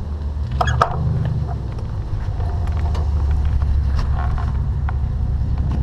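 Motor vehicle engine running with a steady low rumble that rises slightly about a second in.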